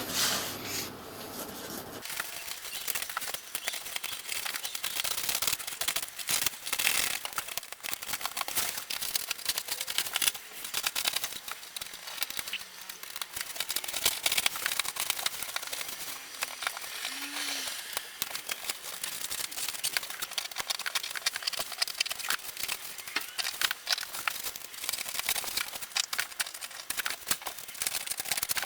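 Dense, irregular crackling and rustling of a car headliner's fabric and its crumbling foam backing being peeled away from the headliner board.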